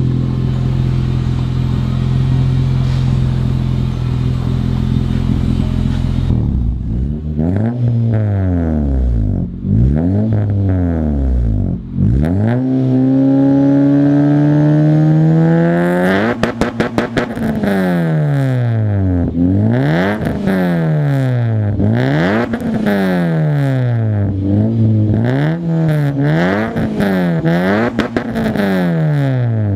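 Supercharged 2014 Honda Civic Si's four-cylinder engine, heard through a Vibrant muffler. It idles steadily for about six seconds, then is blipped again and again, each rev rising and falling. Around the middle it is held in one longer rising rev that breaks into a quick stutter, then goes back to short blips.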